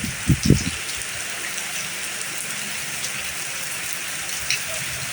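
Steady rain falling and pattering on the ground, strengthening into a heavy shower. A couple of brief low thumps come about half a second in.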